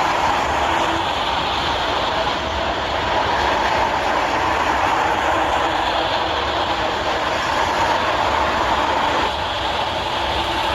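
Steady rumble and rattle of a heavy vehicle in motion, running evenly without change.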